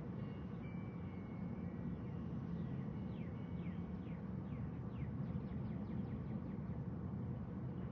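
A bird giving a string of short, quick, falling chirps over a steady low rumble.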